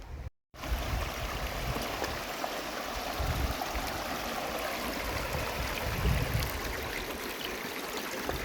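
River water flowing steadily, a constant rushing sound; it drops out for a moment just after the start.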